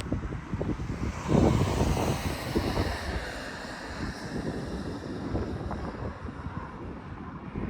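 Wind buffeting the microphone in irregular low rumbles. A broader rushing sound swells about a second and a half in and fades away over the next few seconds.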